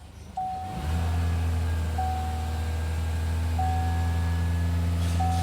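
LDV D90's 2.0-litre petrol engine starting about a second in and then idling steadily. A short warning chime beeps about every one and a half seconds throughout.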